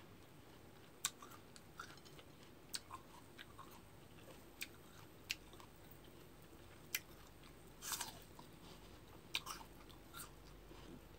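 Close-up eating of raw cut fruit: biting and chewing, heard as a scatter of sharp, irregular crunches, with a longer crunch about eight seconds in.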